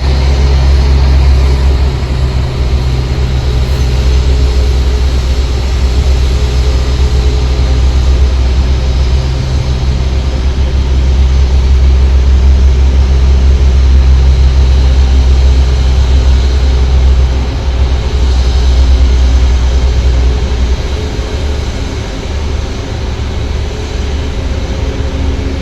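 Loud, steady rumble of jet aircraft engines, deep and heavy, with a faint steady whine above it; it eases off about 18 to 21 seconds in.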